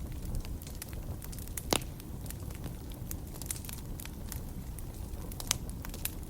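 Wood fire crackling in a fireplace: a steady low rumble of flames with frequent small snaps, and two louder pops, one a little under two seconds in and one near the end.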